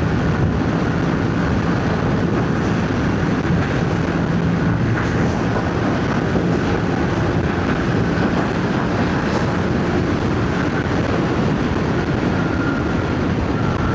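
Yamaha MT-07's 689 cc parallel-twin engine with its stock exhaust, running at a steady cruising speed, heard from the rider's helmet mic with wind rushing over the microphone.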